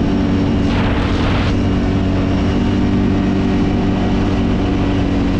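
Kawasaki Brute Force 750 ATV's V-twin engine running at a steady drone while riding. A brief rushing hiss comes about a second in.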